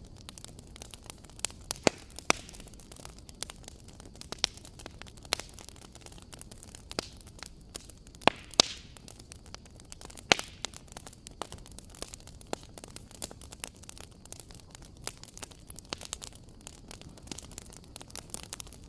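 Wood fire burning in a fireplace: a steady low hiss with frequent sharp crackles and pops, a few louder snaps scattered through.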